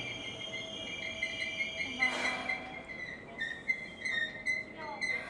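Seibu 3000 series train's brakes squealing in high, wavering tones as it draws into the platform, with a short hiss of air about two seconds in.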